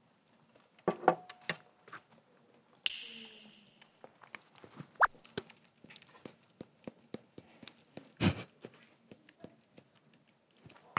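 Close-up chewing of a mouthful of noodles right into a clip-on lavalier microphone: a steady run of small wet mouth clicks and smacks. A brief rustle comes about three seconds in, and a single louder knock a little after eight seconds.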